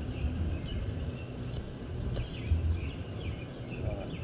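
Outdoor ambience: small birds chirping here and there over a low, uneven rumble.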